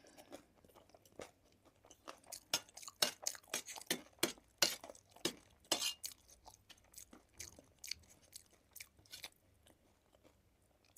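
A person chewing food close to the microphone, with wet crunchy mouth sounds and smacks coming thick and fast through the middle, then tailing off near the end.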